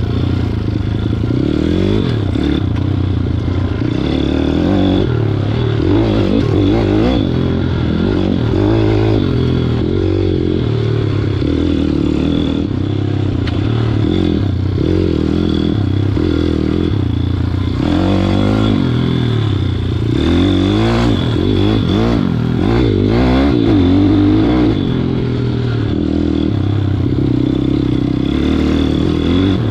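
WPB 160 pit bike's single-cylinder four-stroke engine under riding, revving up and falling back again and again, with occasional knocks from the bike.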